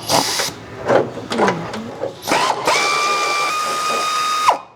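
Several metallic clanks and knocks of tools on suspension parts, then a handheld power tool spins with a steady whine for about two seconds and winds down.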